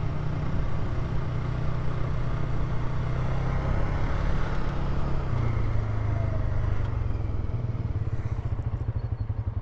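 Polaris quad's engine running steadily while riding a dirt road, with a haze of tyre and ground noise. About five seconds in the engine note drops lower, and near the end the sound settles into a regular pulsing beat as the quad slows.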